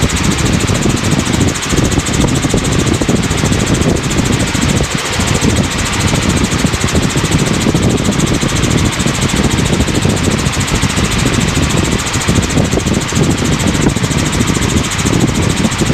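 Helicopter in cruise flight: steady, loud rotor and engine noise.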